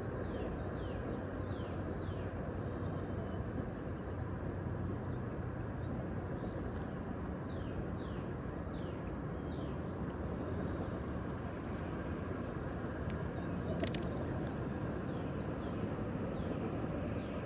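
Steady outdoor background rush with a bird calling short, falling chirps again and again. There is a single sharp click about fourteen seconds in.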